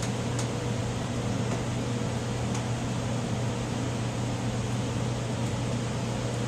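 Steady low electrical hum under an even hiss of air, as from a fan or heater, with a few faint clicks.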